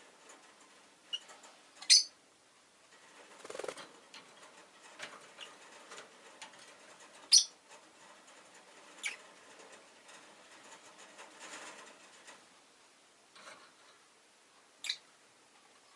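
Rosy-faced lovebird giving short, sharp high-pitched chirps, four of them spaced several seconds apart, with soft rustling and scratching between them.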